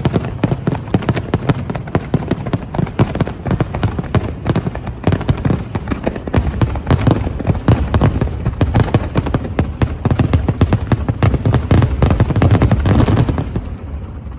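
Aerial fireworks going off in a rapid, dense barrage, many bangs a second over a continuous rumble, dying away near the end.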